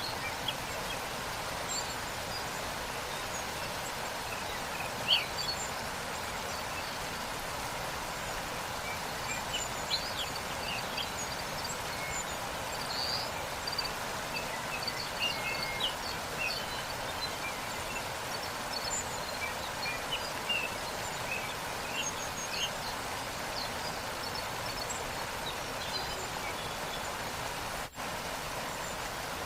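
Waterfall's steady rushing water, with small birds chirping in short high calls throughout. The sound cuts out for an instant near the end.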